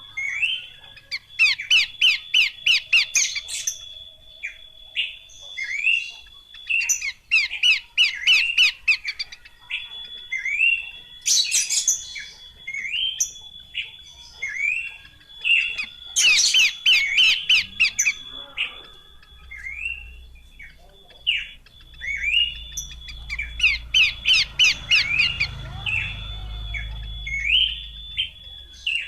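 Horsfield's babbler (pelanduk semak) calling: a string of short repeated whistled notes, broken three times by quick bursts of rapid chattering notes.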